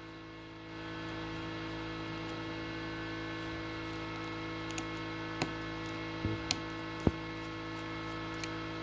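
Steady electrical hum, with a few light clicks about halfway through from small tools and parts being handled while an iPhone 7 Plus is taken apart.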